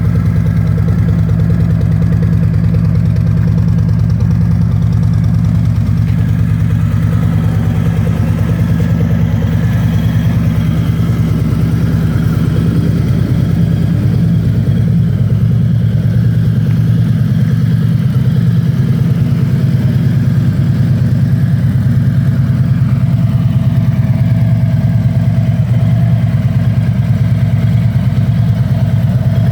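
Harley-Davidson Freewheeler trike's 1745 cc V-twin engine idling steadily.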